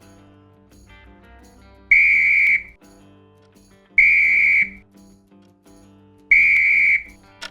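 A whistle blowing three short, loud blasts of one steady high pitch, each lasting a little under a second.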